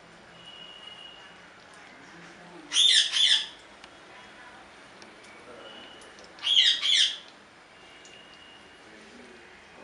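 A bird calling loudly twice, each call a quick double squawk, about four seconds apart.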